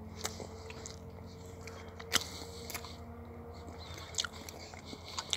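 Crunchy chewing of toast close to the microphone, with a handful of sharp crunches spread through.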